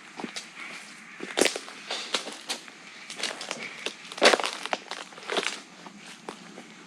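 Footsteps crunching and rustling through brush, irregular, with two louder crunches about a second and a half in and just past four seconds.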